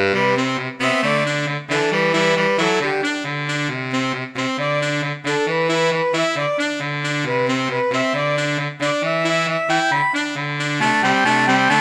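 Saxophone quartet (soprano, alto, tenor and baritone) played back as sampled notation-software audio, performing a four-part pop arrangement. A repeating bass figure runs under chords and melody, with short breaks between phrases, and the top line climbs in steps near the end.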